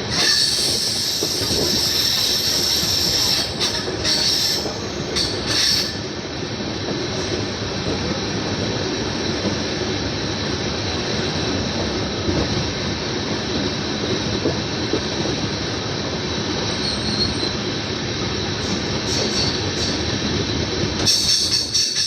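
Passenger train running on the rails, heard from inside a sleeper-class coach: a steady rumble and rattle of the wheels and carriage, with a high squeal from the wheels over the first several seconds and again briefly near the end.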